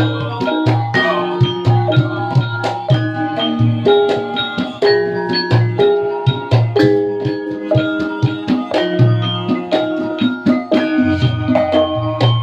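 Gamelan ensemble playing: bronze metallophones strike ringing notes in a running melody over steady drumming.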